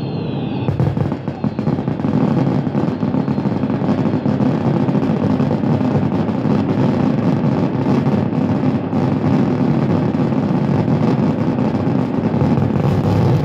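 Fireworks going off in a dense, unbroken barrage of bangs and crackles, setting in loudly about a second in.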